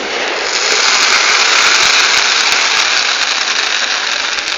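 Fireworks hissing and crackling in a dense, steady wash of noise that swells about a second in and eases off near the end, with no single big bang.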